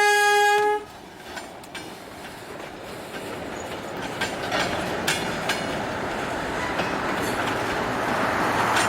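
A locomotive horn sounds one short blast, then the freight train hauled by Iowa Traction steeple-cab electric locomotives rumbles closer, growing louder, with wheels clicking over rail joints.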